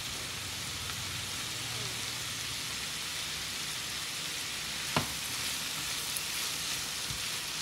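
Sliced onions sizzling steadily in hot oil in a pan as they are stirred with a spatula, with one sharp click about five seconds in.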